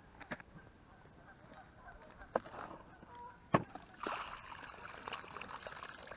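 A few sharp knocks as a minnow bucket is handled, then water pouring and splashing out of it from about four seconds in as the live minnows are released.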